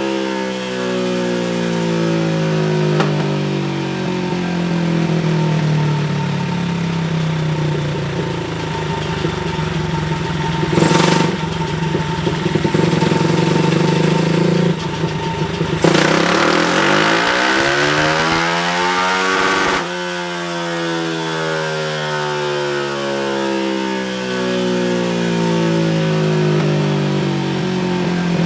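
Single-cylinder four-stroke pitbike engine, a Daytona 190 stroked to 225cc, running on a dyno during carburettor tuning for a lean spot, its revs swinging up and down. About 16 seconds in it is pulled hard, rising steeply in pitch for about four seconds before cutting off abruptly and dropping back. A sharp crack sounds about 11 seconds in.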